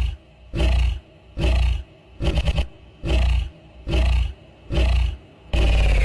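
A bird screaming: a loud, harsh call repeated about every 0.8 seconds, roughly eight times. The last call is longer and ends in a falling pitch.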